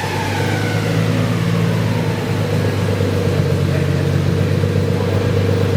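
Turbocharged BMW M52 straight-six, with a Precision 6266 turbo, running on a chassis dyno at a steady, fairly low engine speed with an even pitch, not revving.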